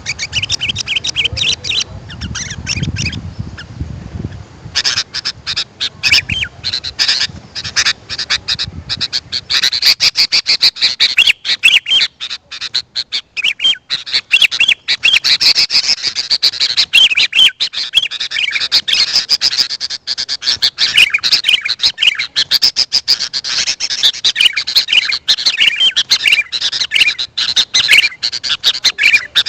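Sooty-headed bulbuls (kutilang) chattering and calling in rapid, dense runs of chirping notes, thinning briefly a couple of seconds in and thickening from about nine seconds on. A low rumble sits under the calls for the first several seconds.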